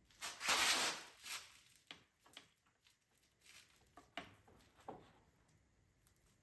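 Hands working on a partly dismantled engine: a brief scraping rush about half a second in, then a handful of light, irregular clinks and knocks of metal parts and tools.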